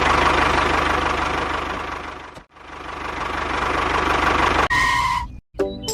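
An engine running with a fast, even chug, fading away and cutting out about halfway through, then building back up. Near the end a short steady beep sounds, and music starts just after it.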